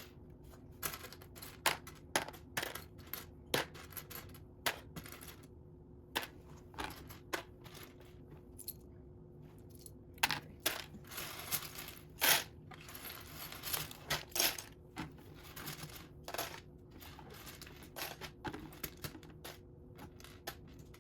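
Loose Lego pieces clicking and clattering irregularly as hands sort through a pile of bricks, with a few louder clacks and short rustles between.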